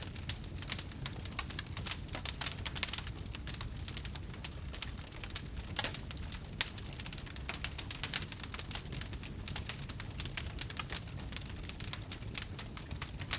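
Wood bonfire crackling: dense, irregular pops and snaps from burning wood over a low steady rumble.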